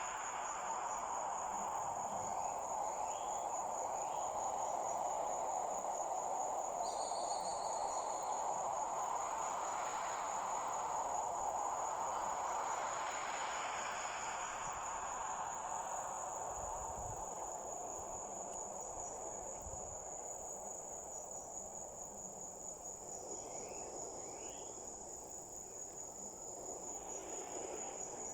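Insects trilling in one steady, unbroken high-pitched note, over a soft rushing background hiss that swells for the first half and fades toward the end. A few short faint chirps come through now and then.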